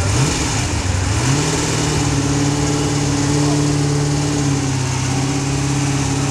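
Saleen S7's 7.0-litre V8 exhaust: one quick blip from idle, then about a second in the revs climb and are held steady at a raised, even pitch.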